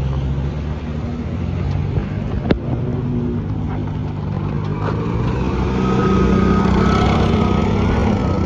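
Motor vehicle engine running steadily, with a single sharp knock about two and a half seconds in; the engine note grows a little louder after about five seconds.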